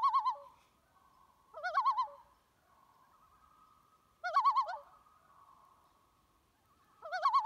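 A bird's short, wavering call, repeated four times about two to three seconds apart, with a faint steady tone between the calls.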